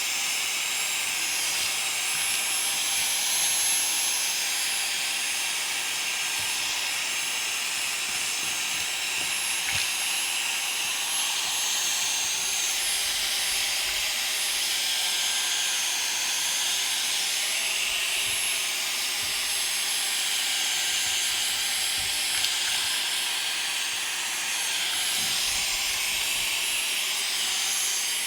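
Vacuum cleaner running steadily with a thin high motor whine, sucking up loose debris from a model railway layout.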